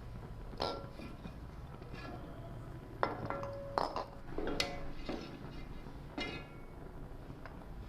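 Hard-boiled eggs being taken out of a cooking pot into a dish: about seven separate clinks and knocks, some ringing briefly.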